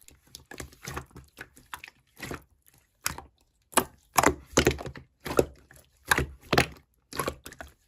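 Slime being squished and pressed by hand, giving a run of irregular crackling clicks and pops that grow louder from about four seconds in.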